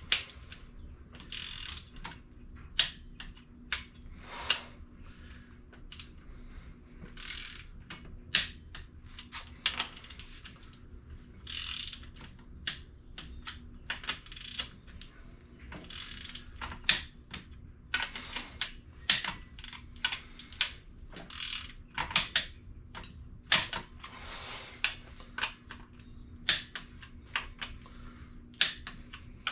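Irregular metallic clicks and clinks of tools and engine parts being handled, with short rustling scrapes in between, over a faint steady hum.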